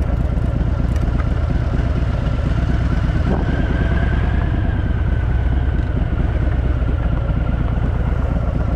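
Harley-Davidson motorcycle's V-twin engine running steadily while the bike is ridden.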